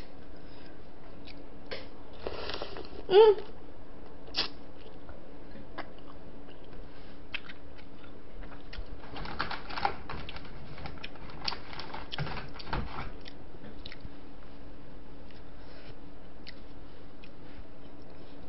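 Close-miked eating: chewing and crunching mouthfuls of spicy braised seafood with bean sprouts, with scattered clicks and crunches that are busiest around the middle. A short loud hum from the eater about three seconds in.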